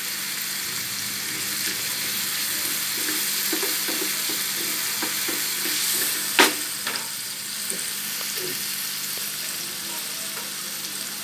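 Chopped onion, tomato, garlic and green chillies sizzling in hot oil in a pan as they brown, stirred and scraped with a wooden spoon. One sharp knock about six seconds in.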